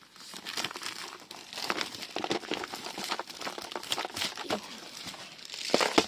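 Packaging of a button snap fastener set being handled and opened: continuous crinkling and rustling with small clicks, with a sharper clatter near the end.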